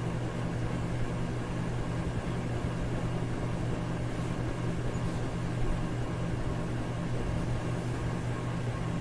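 Electric fan running steadily: a low motor hum under an even rush of air, with no change in speed.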